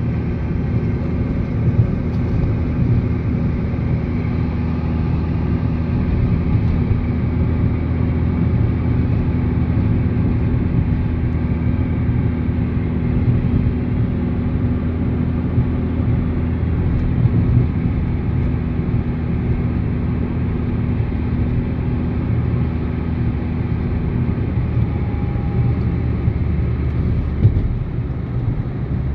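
Old Renault Twingo driving at a steady speed: an even engine hum with road and tyre rumble. The engine note changes a little near the end.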